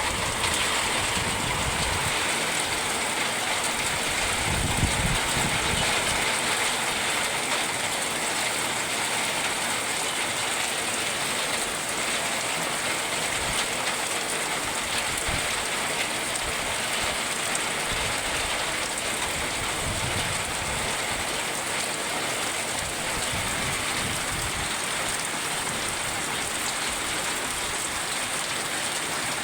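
Heavy rain pouring down steadily in a summer rainstorm.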